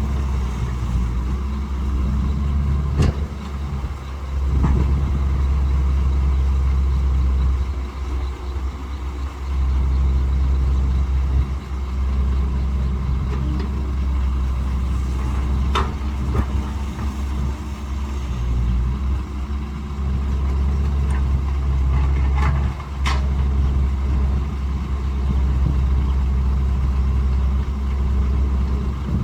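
Caterpillar 312 hydraulic excavator's diesel engine running, its load rising and easing every few seconds as it works, with a few sharp knocks.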